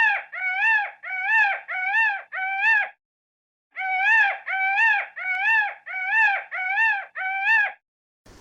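An animal calling: two runs of short high-pitched calls, about two a second, each rising and then falling in pitch, with a brief pause about three seconds in.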